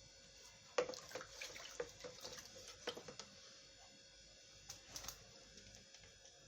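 Faint splashing and clinking of liquid being poured into a small bowl of water, a cluster of sharp little knocks and splashes about a second in and a few more near five seconds.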